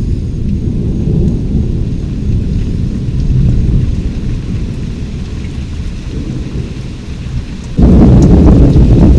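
Thunder rumbling low and long through steady rain. About eight seconds in, a much louder crash of thunder breaks in suddenly and keeps rolling.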